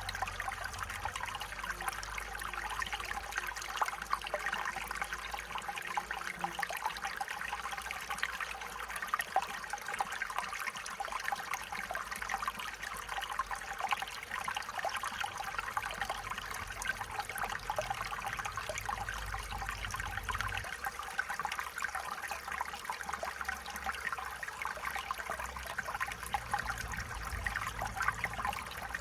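A small stream running over rocks: a steady, even babbling and trickling of water.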